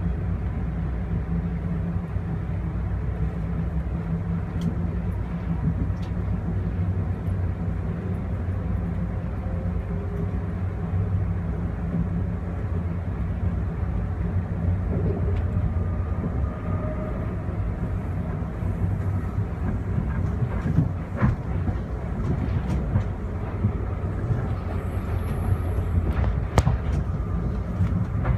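Amfleet passenger coaches running along the line, heard from aboard: a steady low rumble of wheels on rails, with a few sharp clicks near the end.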